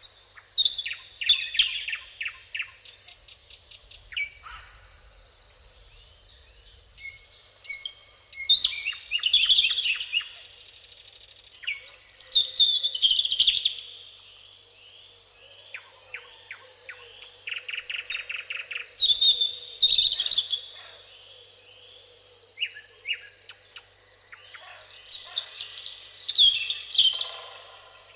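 Songbirds singing, with loud song phrases and chirps recurring about every six seconds, over a steady high-pitched insect trill.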